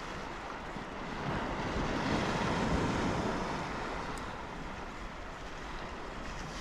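Wind buffeting the microphone and sea water washing around the kayak, as an even rushing noise that swells for a couple of seconds early on and then eases.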